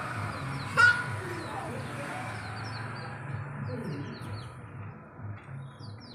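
Caged birds chirping in many short, high calls, with a sharp squeak about a second in.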